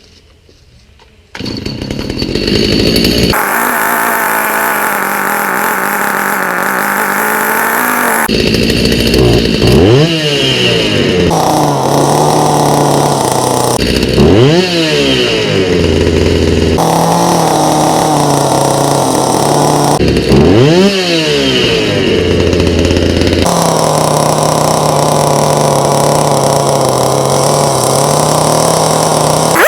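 Stihl MS290 two-stroke chainsaw engine, without bar and chain, starting up about a second in and running fast, then settling to idle and being revved up three times, falling back to idle after each. It is running on a newly fitted aftermarket carburetor at its out-of-the-box settings.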